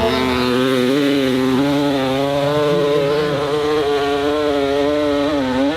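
Dirt bike engine held at high revs on a hill climb, its pitch steady with slight wavering, dropping off near the end.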